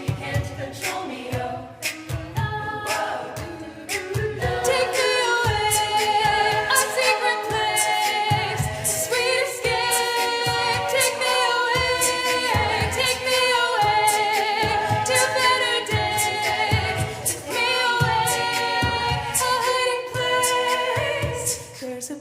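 A cappella group singing layered, wordless vocal harmonies over a vocal-percussion beat. It gets louder and fuller about four seconds in.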